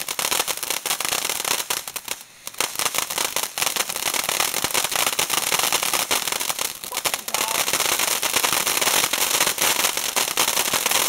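Ground fountain firework burning: dense crackling over a steady spray hiss, briefly dropping off about two seconds in.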